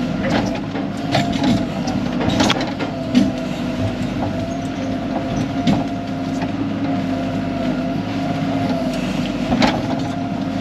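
Excavator's diesel engine running steadily under work, with a few sharp knocks scattered through it, about a third of a second in, at about two and a half seconds, and near the end.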